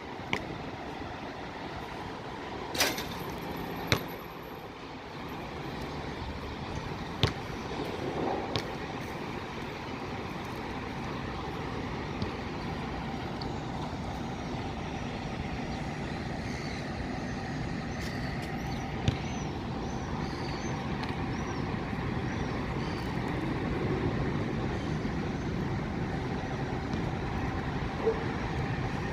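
Steady city traffic noise, with a few sharp knocks scattered through it.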